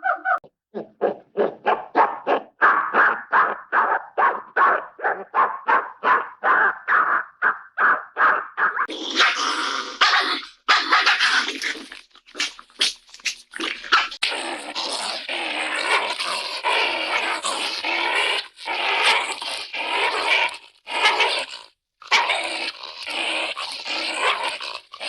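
Cartoon dog sound effects: a fast, even run of short dog sounds, about four a second, then from about nine seconds in longer, rougher growling with short breaks.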